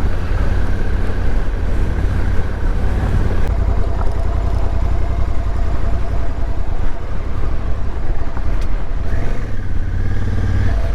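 Motorcycle running, heard through a heavy, fluttering wind rumble on the camera microphone.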